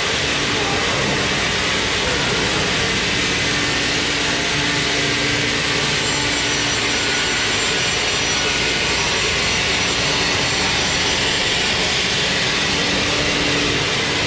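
Sawmill machinery running loudly and steadily: a dense, even noise with a faint low hum underneath and a faint high whine through the middle.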